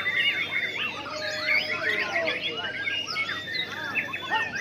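Several white-rumped shamas singing at once, a dense tangle of overlapping whistles, glides and trills.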